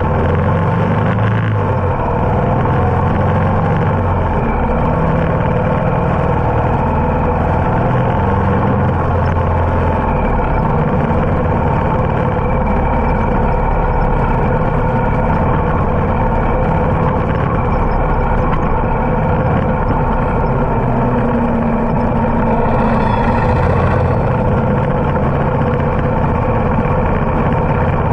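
Vehicle engine running steadily on the move, with road and wind noise and the low engine note shifting slightly as the throttle changes.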